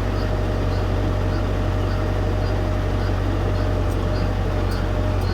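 Tractor diesel engine running at a steady speed with a deep, even hum, and a faint ticking a little under twice a second.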